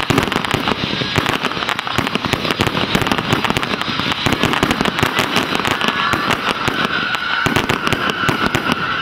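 Fireworks in a dense, continuous barrage of bangs and crackles, many per second. A thin high whistle joins in over the last few seconds.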